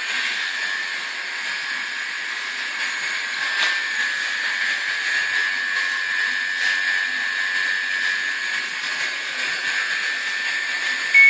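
Samsung front-load washing machine running: a steady whir with a high, even whine throughout.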